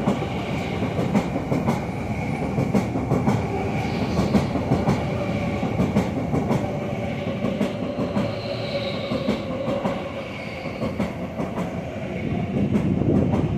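Electric metro train running through a station platform at speed without stopping: a steady rumble of wheels on rail with quick irregular clicks over the rail joints and a faint high whine underneath.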